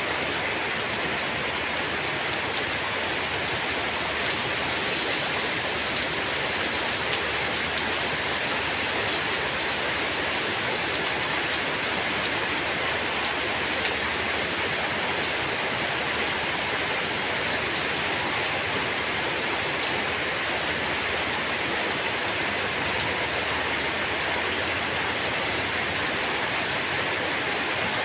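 Steady rain falling, with a few louder drop ticks about six to seven seconds in.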